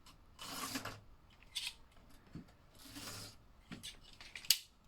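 Small Tyco slot car running on its plastic track, buzzing past three times about two seconds apart, with sharp clicks and rattles in between.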